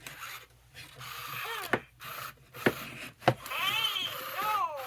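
A 1998 Furby babbling in its high synthetic voice, a few chirpy phrases that rise and fall in pitch, broken by several sharp clicks.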